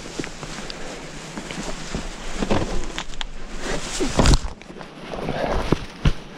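A hiker's footsteps over rough ground: irregular steps and scuffs, the loudest a heavy thump about four seconds in.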